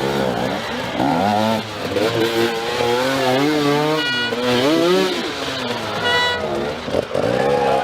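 Enduro dirt bike engines revving hard, the pitch climbing and dropping back again and again as the riders accelerate and shift gears.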